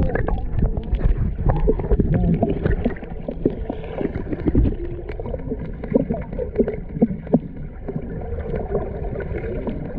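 Seawater sloshing and gurgling close around the microphone, with many small splashes and knocks over a steady low rumble.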